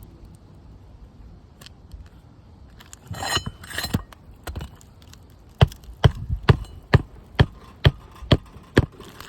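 A short scrape, then eight sharp hammer blows in a steady run of about two a second, with a metallic clink to each strike.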